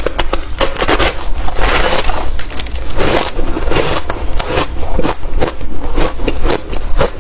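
Close-miked chewing of hard, refrozen crushed ice: loud, rapid, irregular crunches, several a second, as the frozen chunks are bitten and broken between the teeth.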